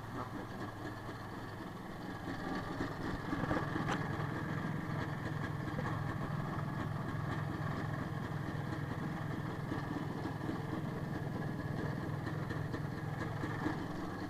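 IZh Planeta motorcycle's single-cylinder two-stroke engine idling steadily, warmed up in the winter cold. It gets a little louder about two and a half seconds in.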